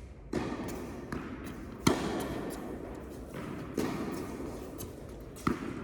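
A tennis rally on an indoor court: sharp knocks of racket strikes and ball bounces, about five in a few seconds, each ringing on briefly in the hall, the loudest about two seconds in.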